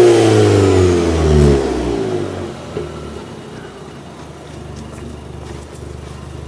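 Alfa Romeo Giulietta QV's turbocharged four-cylinder engine through an Armaflow aftermarket exhaust, its revs dropping after a rev and settling to a steady idle about two and a half seconds in.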